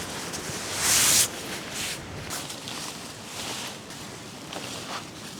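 Rustling of camping gear being handled, with one short, louder swish about a second in, over a steady background hiss.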